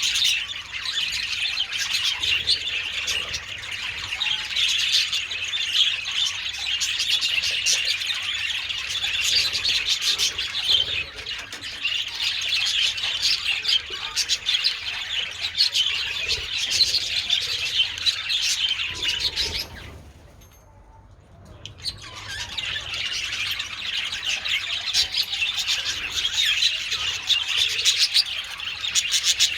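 A flock of budgerigars chattering, with constant chirps and squawks. About two-thirds of the way through the whole flock falls suddenly quiet for a second or two, then the chatter builds back up.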